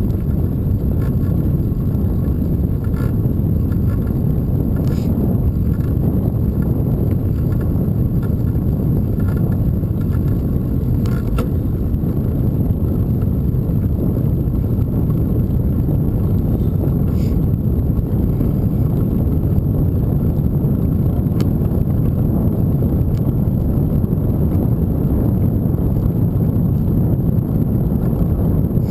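Steady rumble of wind buffeting the microphone on a moving bike ride, with a few faint clicks.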